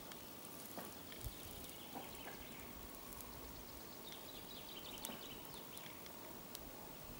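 Quiet forest ambience: a faint steady hiss with a few small scattered ticks, and a faint run of high chirps from about four to six seconds in.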